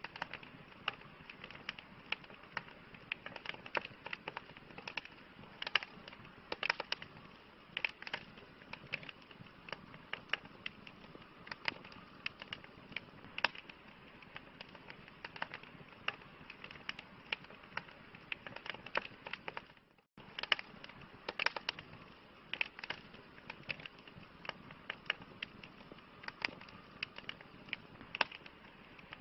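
Wood campfire crackling: frequent irregular sharp pops and snaps over a steady low hiss of burning. The sound cuts out for an instant about twenty seconds in.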